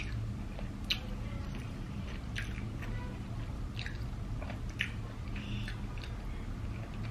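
Close-miked chewing: soft wet mouth clicks and smacks about once a second over a low room hum.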